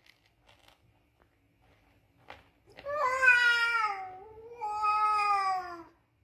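A domestic cat gives a long, drawn-out warning yowl in two connected parts starting about three seconds in, sliding slowly lower in pitch: a defensive threat call at a rival cat.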